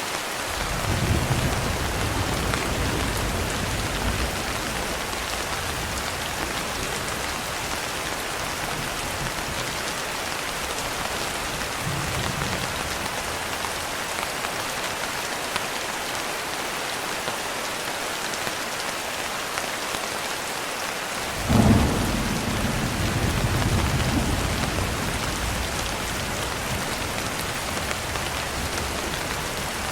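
Steady rain pattering throughout, with thunder: a low rumble rolling in near the start, a faint one midway, and a sharper thunderclap about three quarters of the way through that rumbles on for several seconds.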